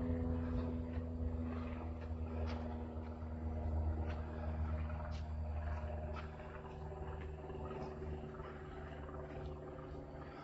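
Footsteps on a dirt woodland trail, a few scattered crunches and ticks, over a steady low hum.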